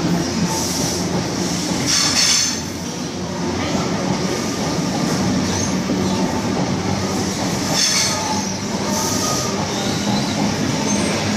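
Rake of Mark 3 passenger coaches passing at speed: a steady rumble of steel wheels on rail, with two brief high-pitched wheel squeals, about two seconds in and again near eight seconds.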